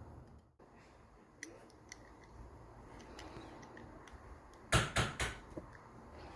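Small clicks and taps from handling a wristwatch and small tools, with three sharp clicks close together about three-quarters of the way in.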